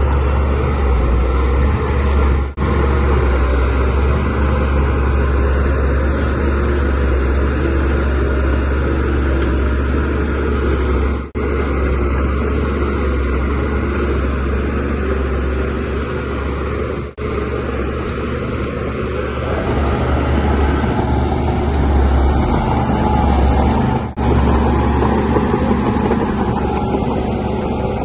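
Bulldozer's diesel engine running steadily with a deep low rumble, broken by very short gaps about four times.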